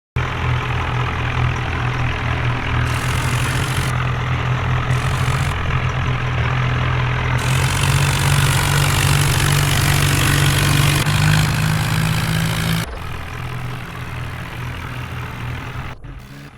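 Tractor engine running loud and steady, with a deep engine hum under heavy exhaust noise; the sound drops and changes abruptly about 13 seconds in.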